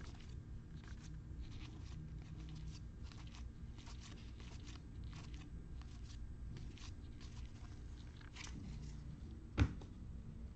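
Trading cards being handled and slid against one another: a run of faint, irregular soft clicks and rustles, with one sharper tap near the end.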